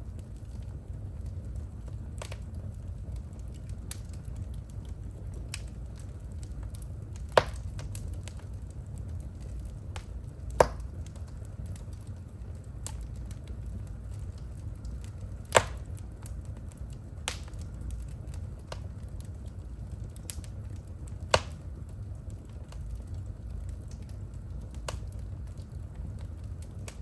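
Wood fire burning in a fireplace: a low steady rumble of the flames with scattered sharp crackles and pops, four of them louder than the rest.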